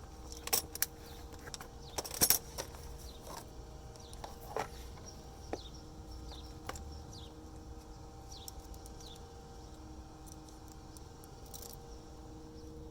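Metal clinks and rattles of tools or parts being handled, busiest and loudest in the first few seconds, then a few scattered clicks. Short falling bird chirps and a steady low hum sit underneath.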